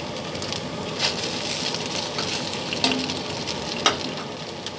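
Slices of radish cake (lo bak go) sizzling steadily as they pan-fry in oil, with a metal spatula clicking against the pan a few times.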